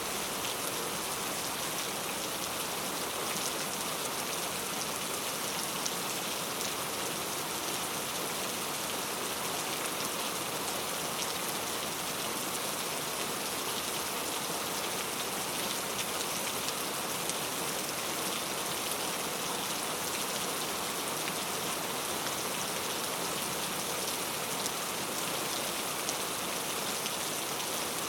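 Steady rainfall, an even hiss of drops pattering on a surface with fine crackle, unchanging throughout.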